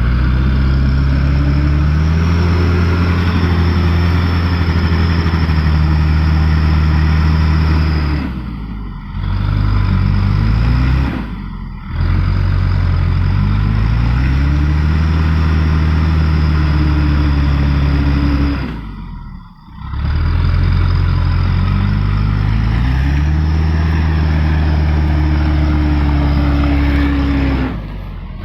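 Mitsubishi Canter light truck's diesel engine revving hard under load on a steep climb. It drops off briefly about four times as the throttle is lifted, then rises in pitch again each time: the truck is struggling to get up the incline.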